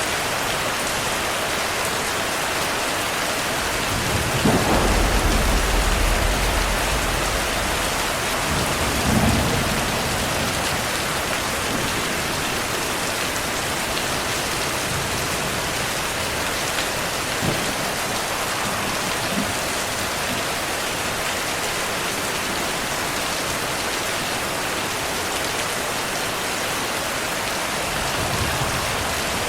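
Heavy rain falling steadily, with thunder rumbling in. A long low rumble starts about four seconds in and lasts a few seconds, a shorter one follows around nine seconds, and a fainter rumble comes near the end.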